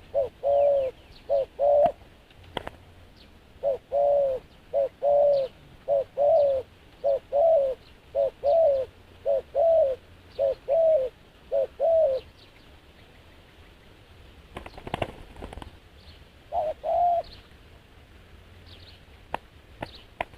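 Dove cooing: runs of short, arched, mellow coos repeated over and over, with a brief pair of coos near the end. Faint small-bird chirps sound higher up, and there is a short rustling clatter a little after the middle.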